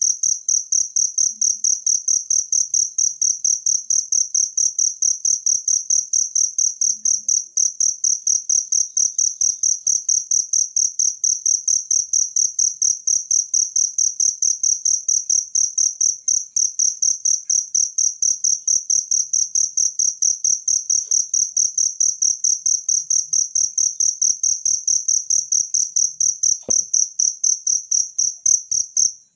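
A cricket chirping in a fast, even, unbroken rhythm of high-pitched pulses. A single brief faint click comes near the end.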